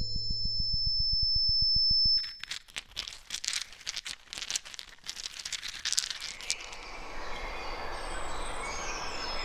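Electronic sound-art piece. A steady synthesized tone with a fast low pulse swells, then cuts off abruptly about two seconds in to grainy crackling meant to replicate the texture of stone. This gives way to an outdoor field recording with short chirps near the end.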